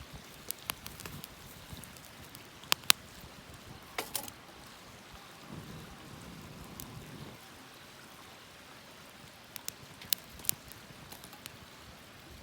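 Wood campfire crackling: sharp, irregular pops and snaps, the loudest a pair about three seconds in, over a faint low hiss.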